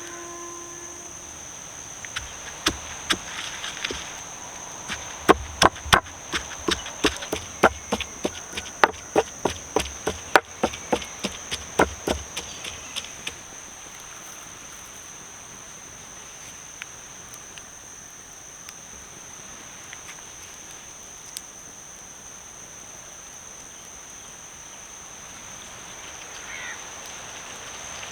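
A knife chopping on a wooden board, quick strokes about two a second for some ten seconds, then stopping. Behind it is a steady high insect drone.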